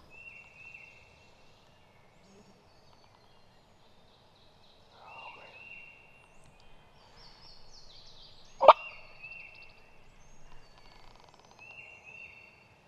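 Turkey yelping: several short series of three or four quick, high, even notes, spaced a few seconds apart. A single sharp crack, the loudest sound, comes about two-thirds of the way through.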